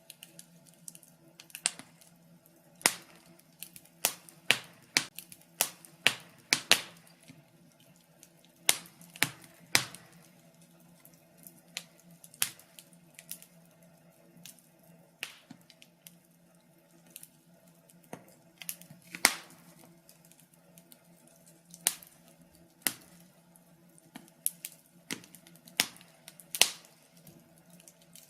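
Wood fire crackling in a fireplace: irregular sharp pops and snaps, a few each second, some louder than others.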